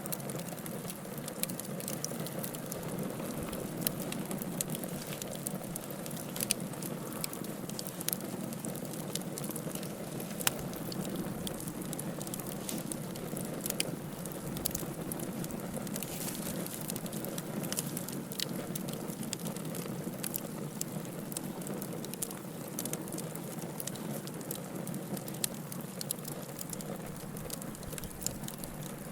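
Wood fire in a fireplace burning steadily, logs crackling and popping with irregular sharp snaps over a soft hiss.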